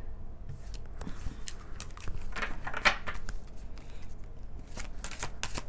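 Tarot cards being handled and shuffled: a run of sharp flicks, snaps and rustles of card stock, densest about two to three seconds in.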